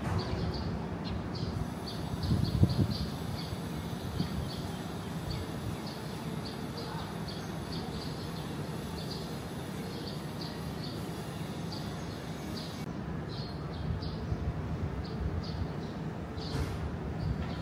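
Birds chirping, short high calls repeating on and off throughout, over a low rumble of wind on the microphone that swells about two and a half seconds in.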